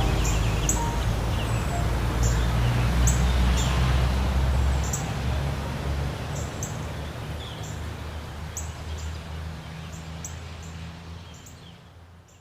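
Small birds chirping, short high chirps repeating every half second to a second, over a steady outdoor noise and a low rumble; everything fades out near the end.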